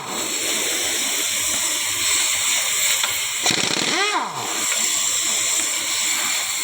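Steady hissing noise, with a brief rising-and-falling whine about four seconds in.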